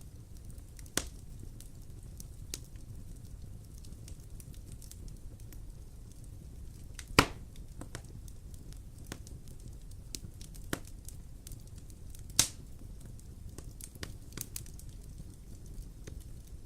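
Wood fire in a fireplace crackling, with sharp pops every few seconds over a low, steady rumble; the loudest pop comes about seven seconds in.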